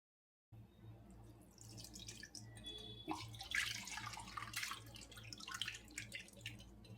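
Faint water dripping and splashing, as at a kitchen sink, in irregular short spatters over a steady low hum; it begins about half a second in.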